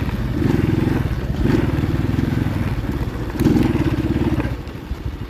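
Kayo Evolution pit bike's four-stroke single-cylinder engine revving in several short throttle surges, then easing off to a lower, evenly pulsing idle near the end as the bike comes to a stop.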